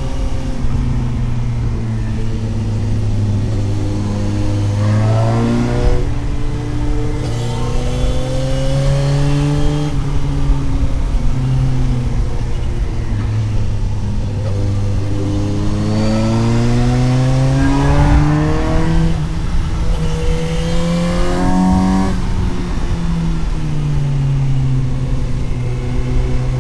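Suzuki GSX-S750's inline-four engine, heard from onboard the motorcycle on a winding road. The revs climb and drop back several times as the rider accelerates out of bends and changes gear.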